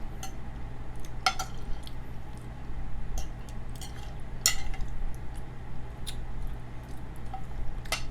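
Cutlery clicking against a plate now and then during a meal, with eating sounds, over a steady low hum.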